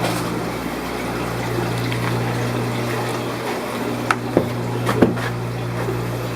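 Steady hum of aquarium pumps and running water in a fish room, with a few sharp clicks about four and five seconds in.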